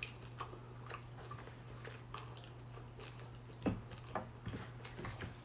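Faint chewing of a bite of smoked chuck steak: scattered soft clicks of the mouth working, a little louder a little over halfway through, over a steady low hum.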